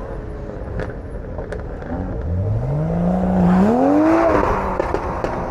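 A car engine revving at a car meet: the pitch climbs about two seconds in, holds briefly, climbs higher near four seconds and then drops back, over a steady background rumble of other engines.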